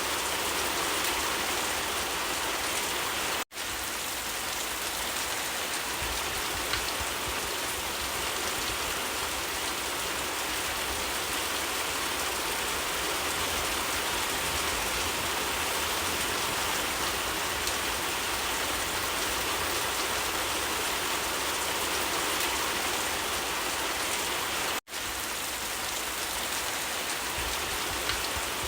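Steady rain falling and pattering on surfaces, an even hiss, with two momentary dropouts to silence: one about three seconds in, another about four seconds before the end.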